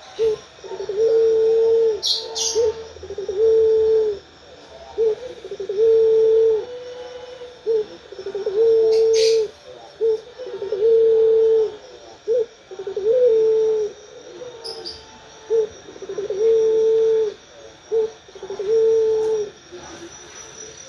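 Puter pelung, a long-cooing variety of Barbary dove, cooing over and over: a string of low, long coos, most about a second each, with short notes between. A few brief high chirps from another bird come about two seconds in and again about nine seconds in.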